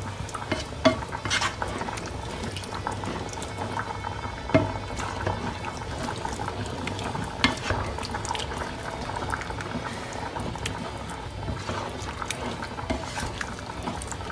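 A spoon stirring thick tomato and ground-beef sauce in a pan over a steady simmer, with many small clicks and scrapes of the spoon against the pan and a few louder knocks.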